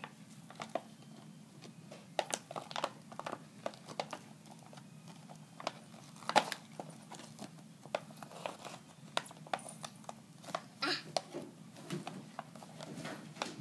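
Toy car packaging being pried open by hand: plastic and cardboard crinkling, crackling and tearing in scattered, irregular clicks and rustles.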